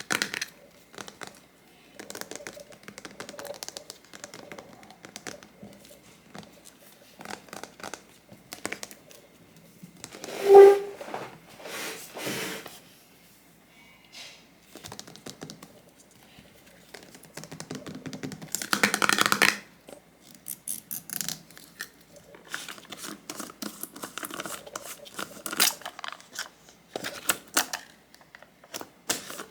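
Small miniature kitchen items and packaging being handled close to the microphone: scattered light clicks and taps, one sharp knock with a brief ring about ten seconds in, and a short burst of rustling a little past halfway.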